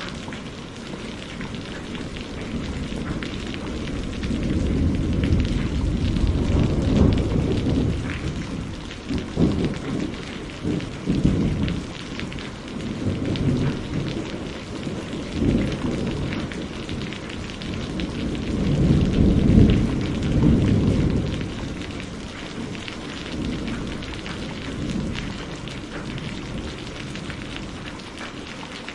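Steady rain with rolling thunder: deep rumbles swell several times, the loudest about two-thirds of the way through, then die away near the end while the rain carries on.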